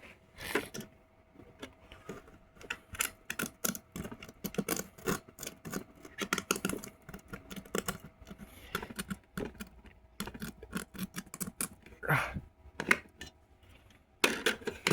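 Handling noise: irregular clicks, taps and knocks, several a second, over a faint steady hum.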